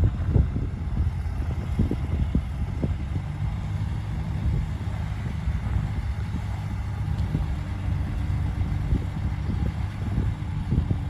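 Komatsu D58P bulldozer's diesel engine running steadily under work, with scattered short knocks and clanks from the machine.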